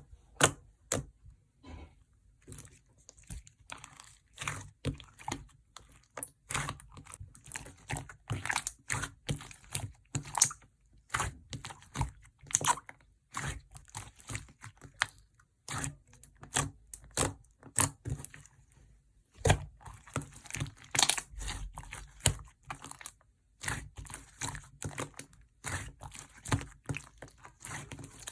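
Slime being squeezed, stretched and pressed by hand, giving a dense, irregular run of crackling and popping clicks, with short pauses now and then.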